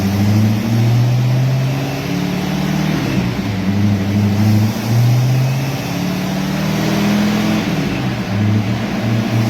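Car engine running and being revved lightly, its pitch shifting up and down a little. It cuts in suddenly, at full strength.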